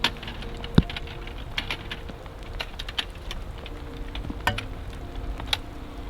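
Raindrops tapping irregularly on tent or tarp fabric, a scatter of sharp ticks over a steady hiss, with the loudest tap a little under a second in.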